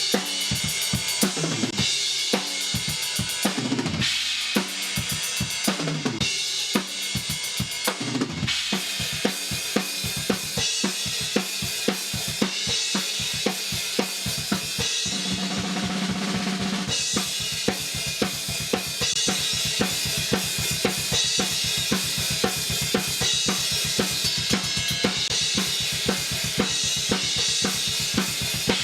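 Heavy metal drum kit playing back as a mixed recording: kick, snare and cymbals, compressed through a dbx-style compressor for comparison. About a third of the way in the kick drum settles into a fast, steady double-bass pattern under the cymbals.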